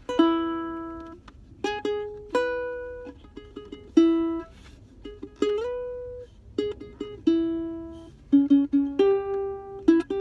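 A solo plucked string instrument plays an instrumental break between verses of a folk song. Single picked notes and small chords start sharply and ring out, about one every second or so, with a few quick runs near the end.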